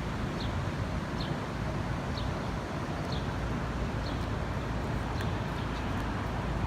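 Steady outdoor city noise, the hum of traffic and wind, with a faint short high chirp repeating about once a second that fades out about halfway through.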